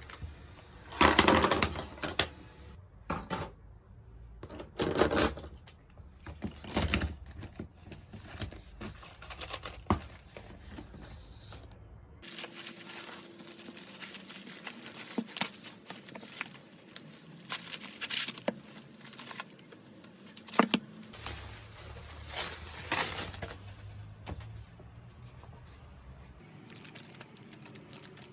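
Irregular small clicks and taps mixed with papery rustling and tearing, with a few louder rustling bursts near the start and about 5 and 23 seconds in.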